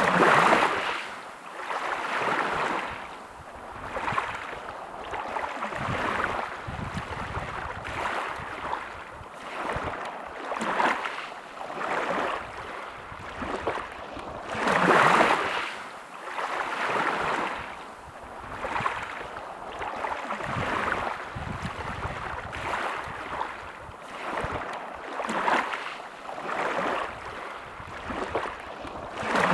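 Small sea waves washing and lapping in quick, irregular swells every second or two, with a bigger surge right at the start and another about halfway through.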